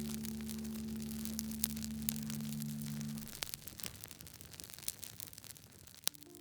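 Wood fire crackling with scattered small sharp pops. A low sustained music note sounds under it and stops about three seconds in, leaving only the crackle, with one louder pop near the end.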